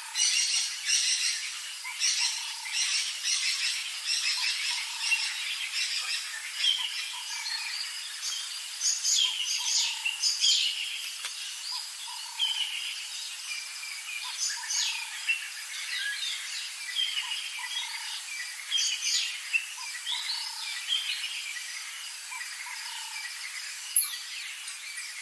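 A chorus of several birds calling and singing, with many short chirps and trills overlapping, and a softer low note repeated underneath.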